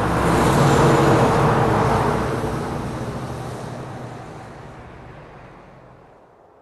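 Truck driving past: engine and road noise swell to their loudest about a second in, then fade slowly away over several seconds.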